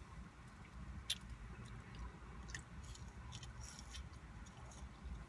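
A person chewing chicken nuggets with the mouth close to the microphone: soft wet chewing with small faint clicks, the sharpest about a second in, over a steady low rumble.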